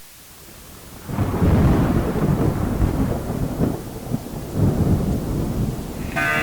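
Thunderstorm: steady rain with low rolling thunder that swells in about a second in. Plucked guitar music starts right at the end.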